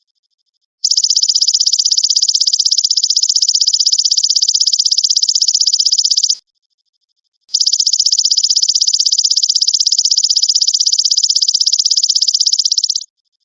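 Belalang emas ('golden grasshopper') insect calling: a loud, fast, buzzing trill of rapid pulses, high-pitched, in two long phrases of about five and a half seconds each with a second's silence between them.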